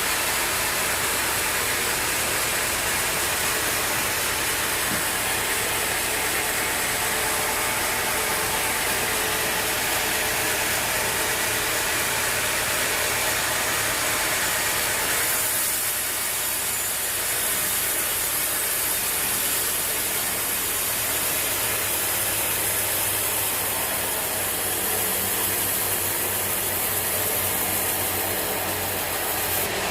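Sawmill machinery running steadily, a continuous mechanical drone with hiss; about halfway through a higher hiss sets in and holds.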